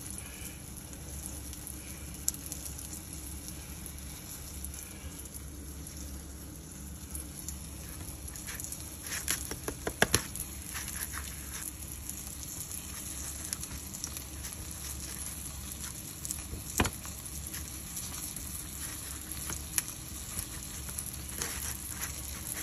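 Grits patties frying in oil in a skillet, a steady sizzle, with a few sharp clicks and taps from handling, most of them about nine to ten seconds in.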